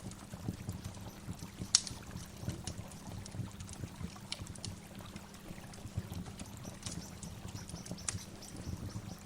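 Waterfall water rushing and splashing steadily, with a few brief high-pitched clicks; the sharpest comes about two seconds in.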